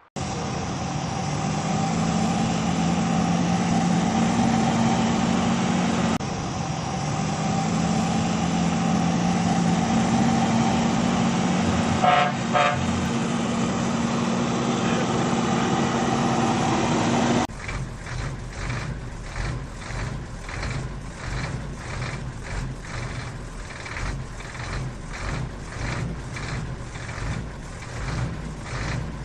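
Railking toy train set sound system: a long steady horn-like drone, broken once about six seconds in, with a short pulsing tone near the middle. It then cuts to an even, rhythmic steam chuffing.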